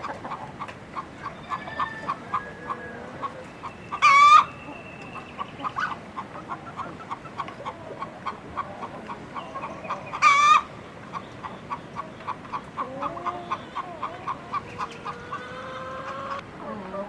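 Chickens clucking in a steady run of short clucks, several a second, with two loud, brief squawks about six seconds apart.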